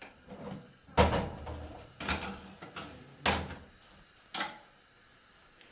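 Four sharp knocks about a second apart, the first the loudest.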